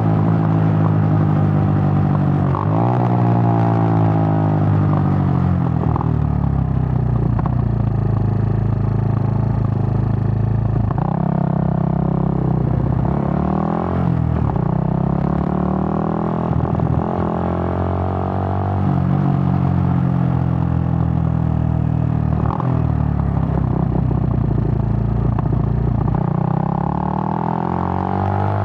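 Suzuki GN125's single-cylinder four-stroke engine running under way, its note climbing with the revs and dropping sharply at each of several gear changes.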